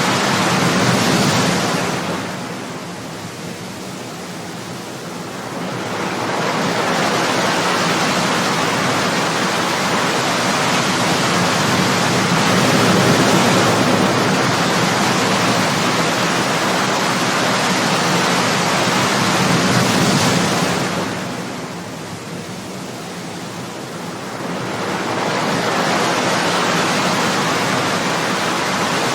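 Ocean surf: waves breaking and washing ashore in a continuous rush that eases into a quieter lull twice, each lull lasting a few seconds before the next wave builds back up.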